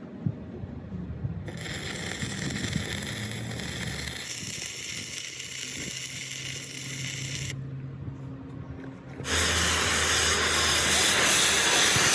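Steady hissing in two spells: one from about one and a half seconds in, stopping near the middle, then a louder one starting about nine seconds in, over a low steady hum.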